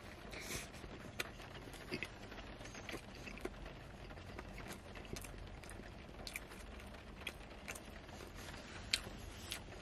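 Close-up chewing of a bite of a soft fried-chicken, ham and cheese sandwich: small, irregular wet mouth clicks over a low steady background hum.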